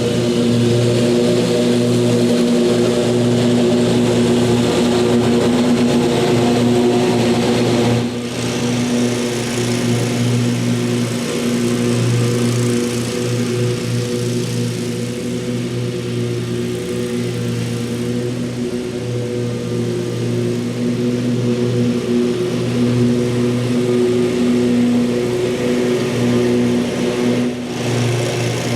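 Lawn mower engine running at a steady speed under mowing load, dropping a little in loudness about eight seconds in and dipping briefly near the end.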